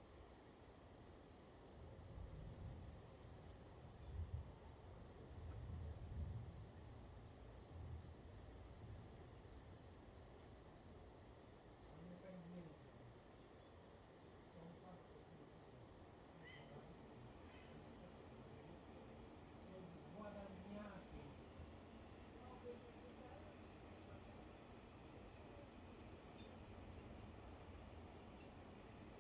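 A cricket chirping steadily in rapid, even pulses, faint throughout. A low, distant rumble swells a few seconds in and fades by about nine seconds.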